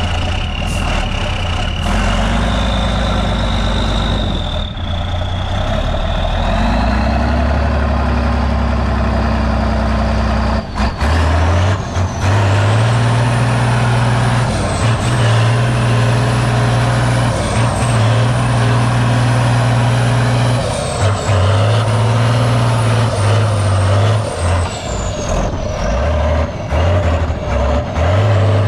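Heavy off-road trials truck's engine working hard, stepping up in revs about a third of the way in and holding there. A high whine rides over it, rising steadily in pitch and falling away near the end.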